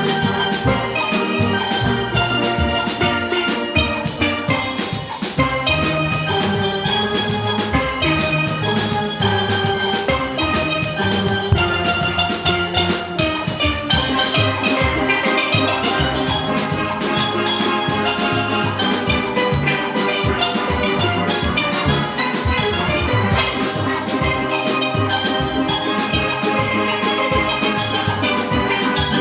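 Steel orchestra playing: many steelpans striking quick, bright pitched notes over a steady drum-kit rhythm.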